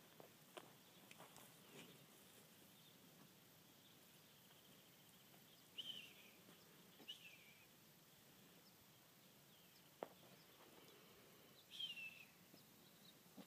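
Near silence with faint outdoor background and three short, high bird chirps that fall in pitch, one about six seconds in, one about seven, one near the end. A single faint click about ten seconds in.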